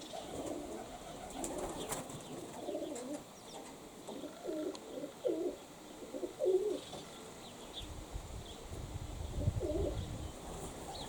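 Domestic pigeons cooing, a run of coos in the middle and another near the end, with wind buffeting the microphone in the last few seconds.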